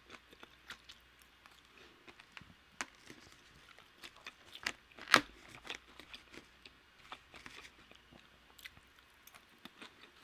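Close-miked chewing of green beans: soft, irregular small clicks and crunches, with one sharper click about five seconds in.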